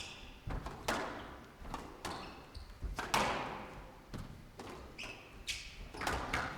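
Squash rally: the ball cracking off rackets and the court walls in a quick series of sharp hits, each ringing in the glass-walled court, with short high squeaks of players' shoes on the court floor between them.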